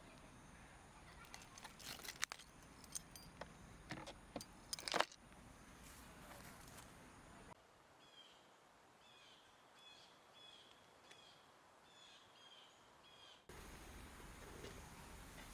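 A string of sharp clicks and knocks over the first five seconds, the loudest about five seconds in. Then the background drops abruptly and a bird chirps about a dozen times in short repeated calls.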